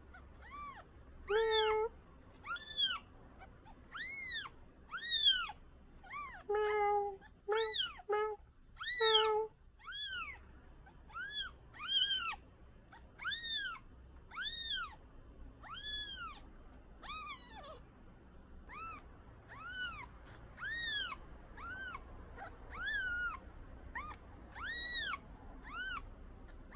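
A newborn kitten in its first week mewing over and over, about one high-pitched call a second, each rising then falling in pitch.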